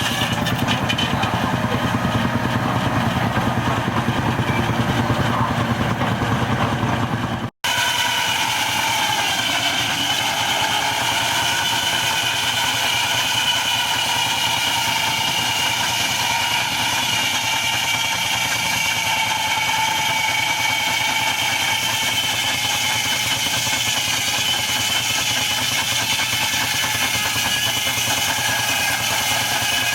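Machinery running steadily, engine-like. The sound breaks off for an instant about seven and a half seconds in and carries on with a slightly different set of tones.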